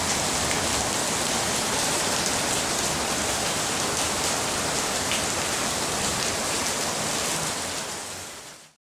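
Rain falling on wet hexagonal paving blocks and floor tiles, a steady hiss of rain with scattered drop splashes. It fades out shortly before the end.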